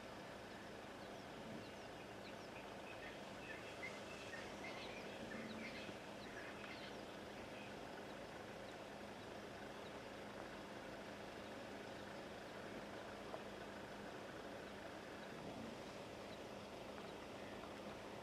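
Faint ambience with a steady low hum, and small birds chirping in short high calls for a few seconds starting about three seconds in.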